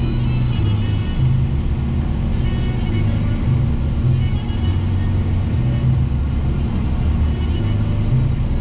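Music from the car radio, a bass line stepping from note to note, heard inside the car's cabin over the steady rumble of the engine and tyres.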